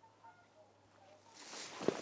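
Faint short bird calls repeating, then footsteps starting about one and a half seconds in, with one sharp crunch near the end.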